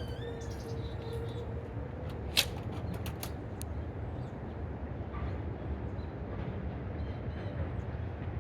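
Small birds at a feeder giving short chirps near the start and again near the end, over a low steady rumble. A sharp click about two and a half seconds in is the loudest sound, followed by a few fainter clicks.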